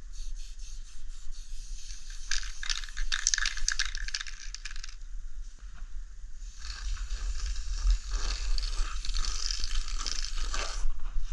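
Aerosol spray paint can spraying in two long hissing passes with a short break between them.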